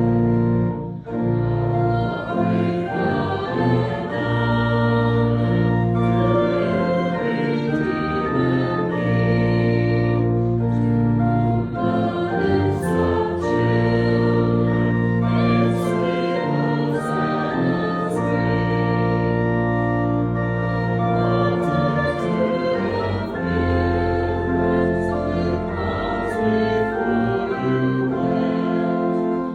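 A congregation singing a hymn together, accompanied by a pipe or electric church organ holding long, sustained chords.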